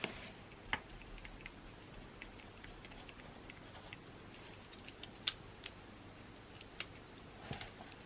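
Handwriting on paper: light scratches and small ticks of a pen tip moving over the page, broken by a few sharper clicks and taps of the pen.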